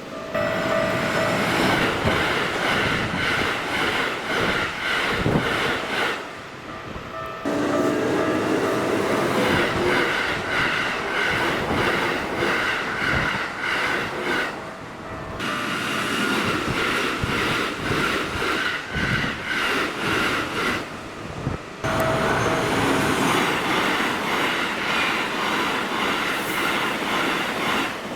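Keikyu trains passing a level crossing at high speed, wheels clattering and rumbling on the rails, under the crossing's warning bell ringing in an even, repeating beat. The sound changes abruptly three times, about a third of the way in, halfway and three-quarters of the way through, as one passing gives way to the next.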